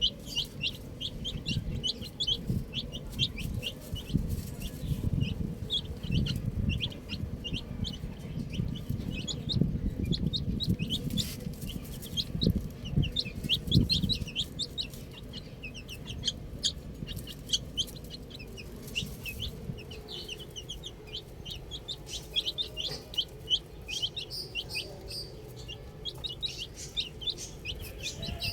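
A group of baby chicks peeping nonstop in quick, short, high falling peeps, over lower-pitched sounds that are loudest in the first half.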